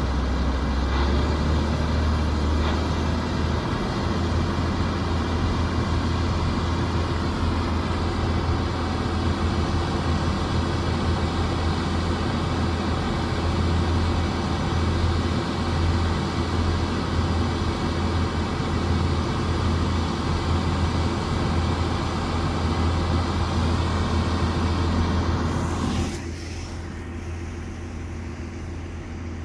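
Large diesel harvest machinery running steadily under load: a deep engine hum with a faint high mechanical whine over it. Near the end the sound drops suddenly, turning quieter and duller.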